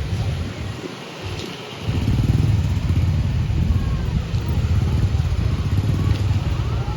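Low, continuous rumble of vehicle engines on a mountain road. It eases briefly about a second in, then returns at full strength.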